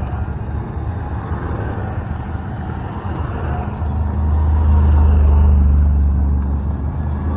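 Tour vehicle's engine running as it drives along the road, a steady low hum that grows louder about four to six seconds in.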